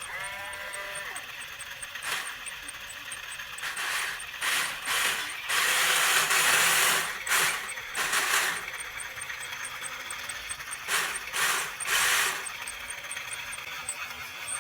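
Short, rasping mechanical bursts of a small tool or mechanism at work, each lasting up to about a second and loudest around the middle. A faint, high, even ticking runs about three times a second underneath.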